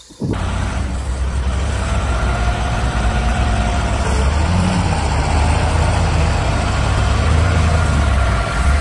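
A motor vehicle running: a steady low engine rumble under a broad rushing road or wind noise.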